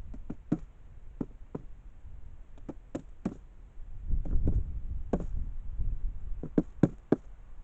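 Irregular short, sharp knocks and taps, about fifteen of them at uneven spacing, with a low rumble between about four and five and a half seconds in.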